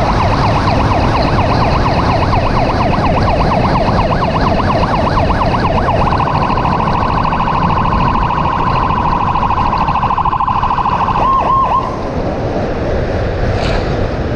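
Emergency vehicle siren sounding in a fast yelp over road and engine noise. About six seconds in it switches to a steady tone, then gives a brief warble and cuts off about twelve seconds in.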